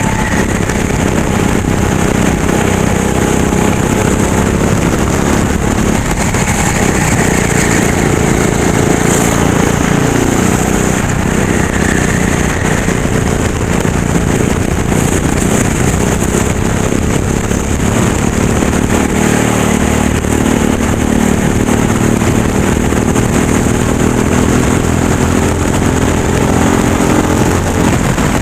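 Racing kart engine running hard, its pitch rising and falling as it speeds up and slows down.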